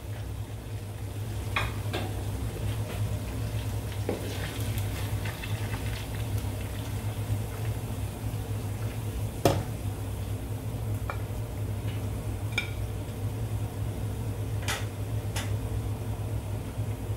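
Fried chicken pieces sizzling in shallow oil in a pot as they are lifted out with kitchen tongs, with scattered clicks of the tongs against the pot and plate, the sharpest about nine and a half seconds in. A steady low hum runs underneath.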